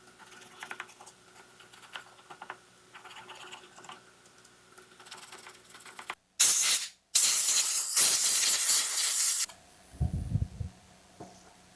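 Light scraping and ticking, then pressurised spray hissing in two blasts, a short one and a longer one of about two seconds, as the gasket surface of a chainsaw engine part is blasted clean. A short dull knock follows near the end.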